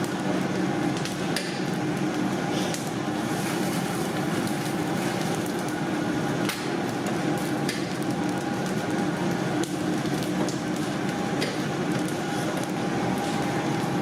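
Steady mechanical hum with a handful of sharp knocks or clicks scattered through it.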